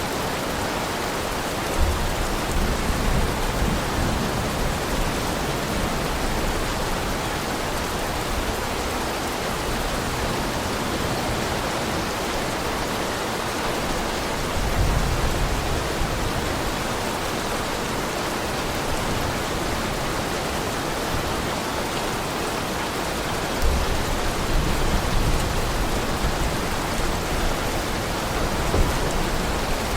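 Heavy rain falling steadily as a dense, even hiss, with low rumbles swelling three times: about two seconds in, about halfway, and again near the end.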